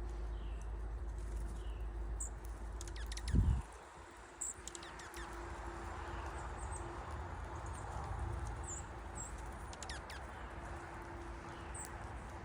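Small wild birds giving short, high chirps and calls, scattered through, over a low steady rumble. A dull low thump comes about three and a half seconds in, and the rumble drops away after it.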